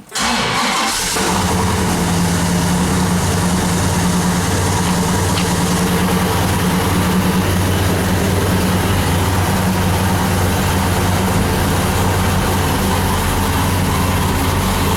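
Oldsmobile 455 V8 cold-started: a brief crank right at the start, it catches about a second in and then runs steadily, heard through a 2.5-inch dual exhaust with an X-pipe and mufflers.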